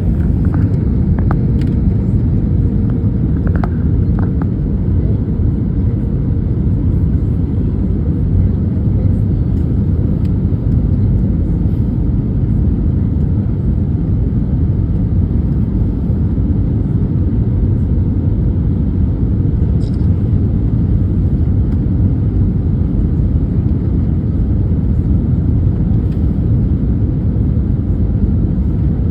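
Steady low rumble of an airliner during its approach to landing.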